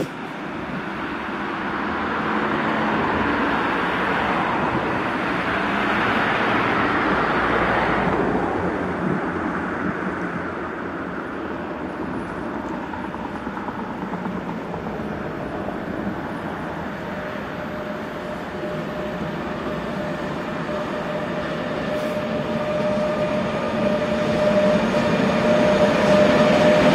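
Electric trains approaching and passing: a freight train hauled by two electric locomotives with loaded hopper wagons, and an ICE high-speed train on the next track. The rumble and rush of wheels on rails grow louder toward the end, with a steady motor whine. Earlier, a rushing noise swells and fades over the first several seconds.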